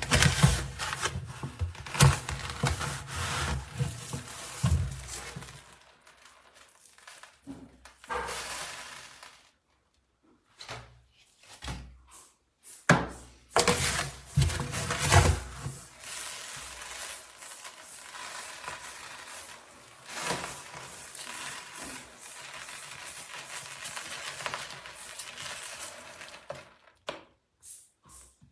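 Fine-grained plant-based cat litter being handled: grainy rustling and scraping broken by knocks and clatters, on and off, with short pauses.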